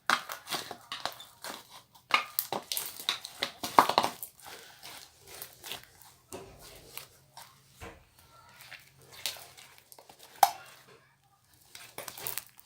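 Cloud slime being kneaded and stretched by hand, giving irregular sticky crackling and squishing, with a few sharper snaps as it pulls apart.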